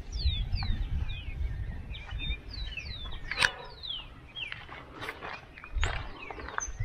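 Birds singing: many short, falling whistled notes overlapping throughout, over a low rumble, with a sharp click about three and a half seconds in.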